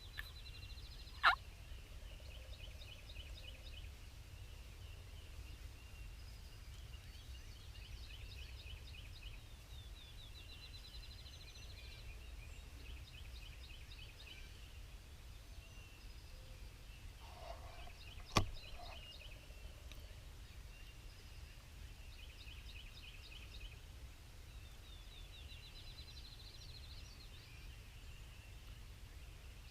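Wild turkey calling in the open, with a short gobble-like burst a little past halfway, over songbirds repeating high, quick trills. Two sharp sounds stand out as the loudest moments: one about a second in and one a little past halfway.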